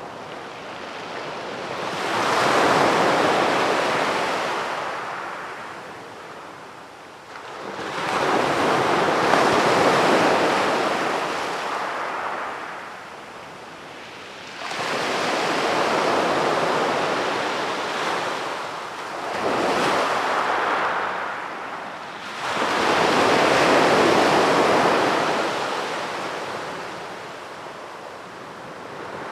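Sea waves breaking on a beach and washing up the shore: about five surges, each swelling quickly into a rushing hiss and then fading away over several seconds.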